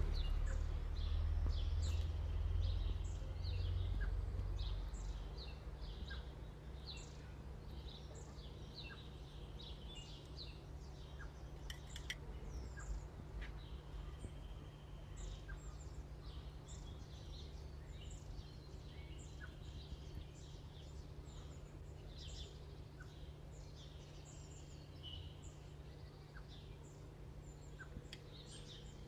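Small birds chirping repeatedly in quick, high, sliding notes over a steady low hum. A low rumble fades out over the first few seconds, and there are a few faint clicks of a knife tip against a ceramic plate as a mango is diced.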